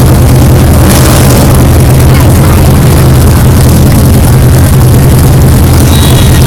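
1964 Corvette's 327 small-block V8 running loud and steady under light load, heard from inside the car.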